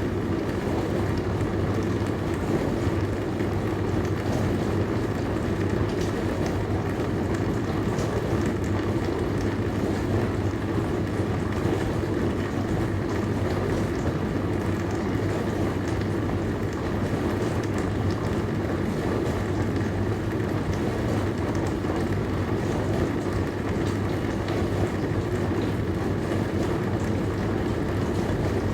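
Dishwasher running mid-cycle: a steady water spray and churning over a constant low motor hum.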